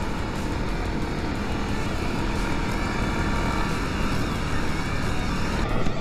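Motorcycle riding along with steady engine and wind noise.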